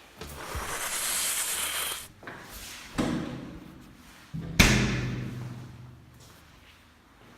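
A hiss for about two seconds, then two heavy thuds about a second and a half apart. The second thud is the louder, with a low ringing tail that slowly fades.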